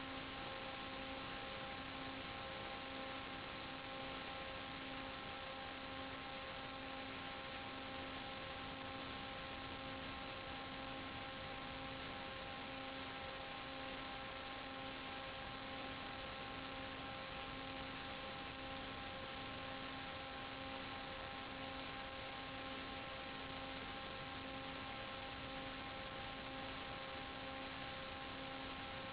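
Steady electrical hum of several constant tones over an even hiss, unchanging throughout.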